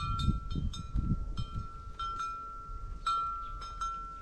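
A metal bell clanking with irregular strikes, several a second, each ringing on with a clear tone, typical of a bell on a moving cow. Low rumbling sounds come under it in the first second or so.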